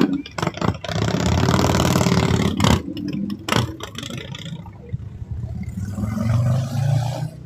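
Vehicle engines revving, loudest for the first few seconds with a few sharp knocks, then running lower and rising again near the end.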